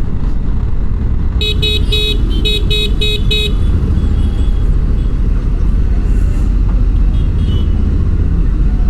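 A vehicle horn honked in a quick string of short toots, about eight in two seconds, over the steady rumble of engine and road noise while riding in city traffic.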